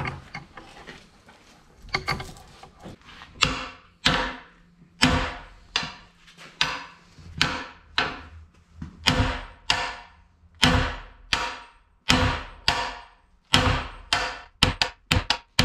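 Steady series of hammer blows, about one to two a second, on a bearing driver, knocking a tight-fitting bearing into the bore of a CAT D4D diesel engine block; each strike rings briefly. The blows start about two seconds in and grow heavier.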